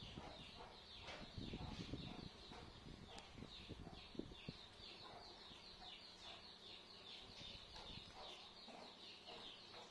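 Faint bird chirping: a steady run of short, high, falling chirps, two or three a second. A few low dull thumps in the first two seconds and a single tick about four seconds in.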